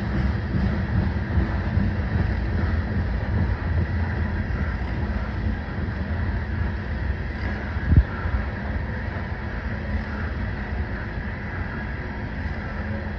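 Freight train's covered hopper cars rolling past, a steady low rumble of steel wheels on rail, with one sharp clank about eight seconds in.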